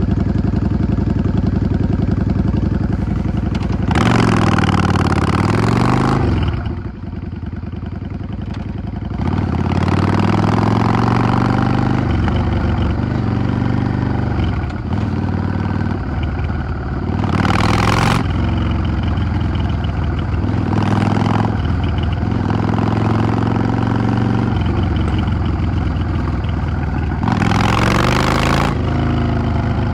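Yamaha XVS 650's air-cooled V-twin running on the move, its pitch falling as the throttle is closed and rising again as it pulls away. Several short bursts of hiss sound over it at intervals.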